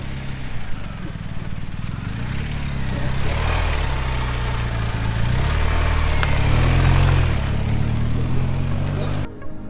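Honda Grom's single-cylinder engine with an aftermarket exhaust, running at low speed, its revs rising and easing off several times, with wind and road noise over it. The sound cuts off abruptly near the end.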